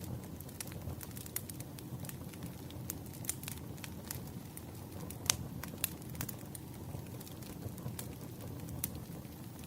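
Firewood burning in a fire: irregular crackles and pops over a low steady rush of flame, the sharpest pop about five seconds in.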